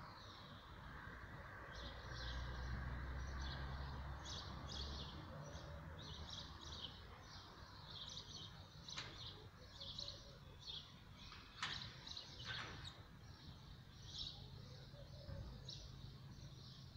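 Small birds chirping in quick, irregular short calls throughout, faintly, over a low rumble that swells in the first few seconds.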